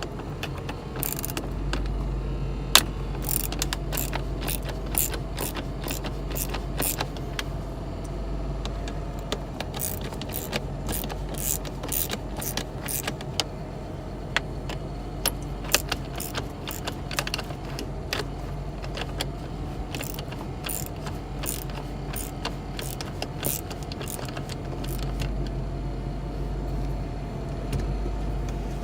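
Socket ratchet clicking in runs as bolts are backed out, over the steady hum of the idling car heard from inside the cabin.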